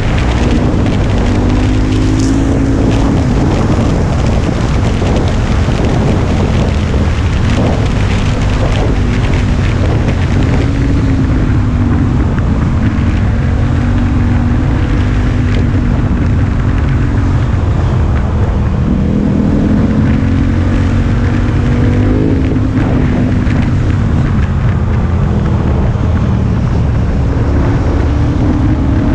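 KTM 1090 Adventure R's V-twin engine running under way, its pitch rising and falling several times with the throttle, over wind noise on the microphone.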